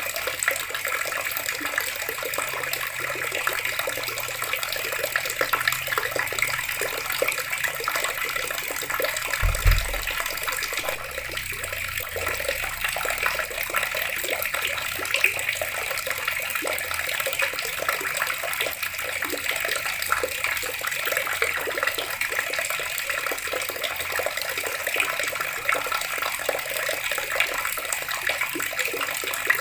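Water running steadily from a tap in a continuous splashing stream, with one short low thump about a third of the way through.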